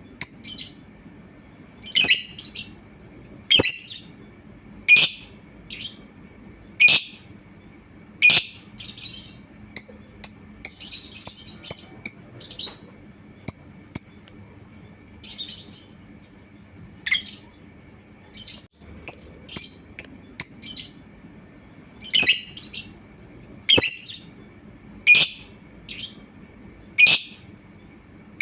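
Lovebird giving short, shrill chirping calls, repeated about every one to two seconds, with a brief run of quicker chattering near the middle.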